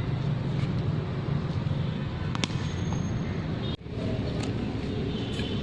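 Sharp knock of a cricket ball impact about two and a half seconds in, with fainter knocks near the end, over a steady low outdoor rumble; the sound drops out briefly just before four seconds.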